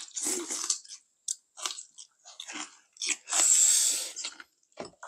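Close-miked chewing and crunching of food, in a run of short bursts, with a longer, louder slurp about three seconds in.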